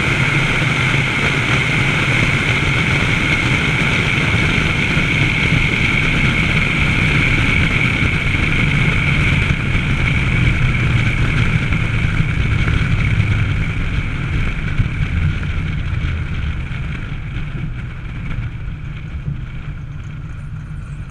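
Car engine running steadily under way, with wind rushing over a car-mounted action camera; the car eases off and the sound drops over the last several seconds.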